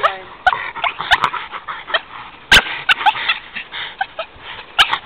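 Squeaky rubber bouncy ball toy squeaking in many short chirps as a dog chews and squeezes it, with a few sharp knocks, the loudest about halfway through.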